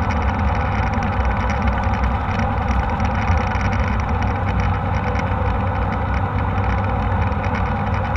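Steady cabin noise of a jet airliner, a constant drone of engines and airflow heard from inside the passenger cabin.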